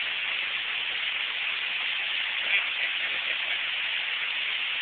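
Torrential rain pouring down in a steady hiss.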